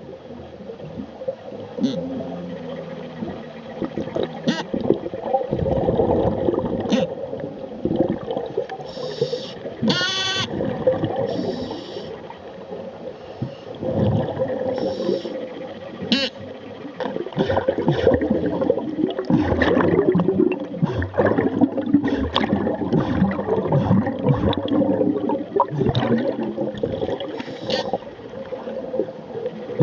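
A scuba diver's funny noise underwater: pitched sounds that waver and bend up and down, mixed with gurgling, with a brief high squeal about ten seconds in.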